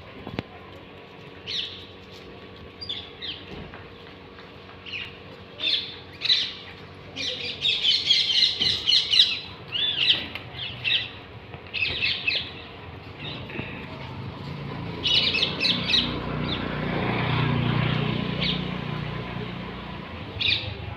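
A flock of parrots giving short, shrill screeching calls, bunched into busy bursts with gaps between. A low rumble swells and fades near the end.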